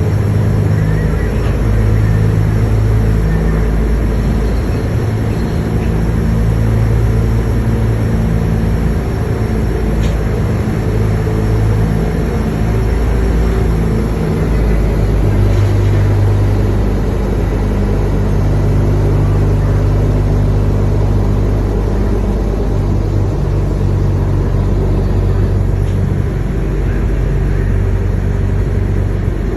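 An engine running steadily with a low hum that holds its level throughout, its pitch shifting only slightly now and then.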